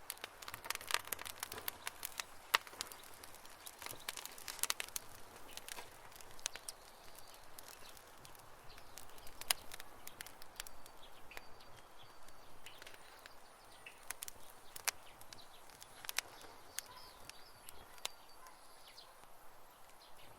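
Wood campfire crackling: irregular sharp pops and snaps over a soft hiss, busiest in the first few seconds and sparser afterwards.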